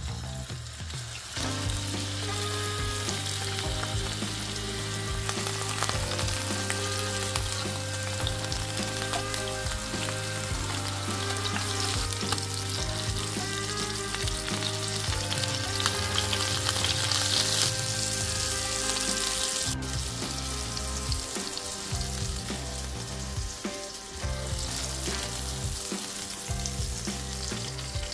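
Scallops searing in hot olive oil and foaming butter in a frying pan, sizzling steadily. The sizzle changes abruptly about two-thirds of the way through.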